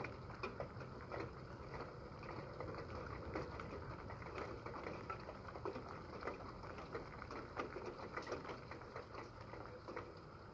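Light rain pattering and dripping: a faint, steady wash with many irregular small taps of drops.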